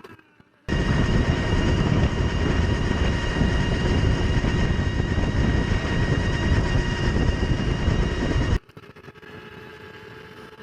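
Energica Ego electric motorcycle riding at a steady speed: loud wind noise on the microphone with a steady whine from the electric drive. It starts suddenly about a second in and cuts off abruptly near the end.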